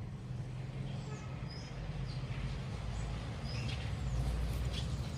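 Small birds chirping, several short high calls scattered through, over a steady low rumble.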